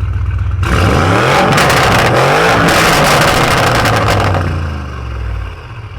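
A stock car engine idling, then revved hard about half a second in and held high for several seconds before dropping back to idle.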